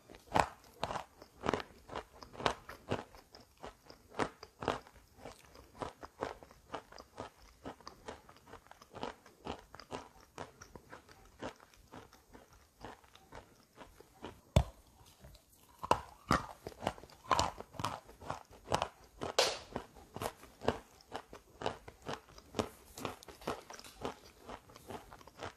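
Close-up biting and chewing of wet chalk coated in gray clay paste: a steady run of crisp crunches, two or three a second, with one sharper bite about halfway through.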